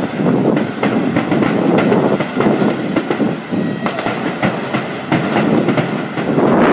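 Fireworks going off: a rapid run of irregular bangs and crackles over a continuous rumble, growing louder near the end.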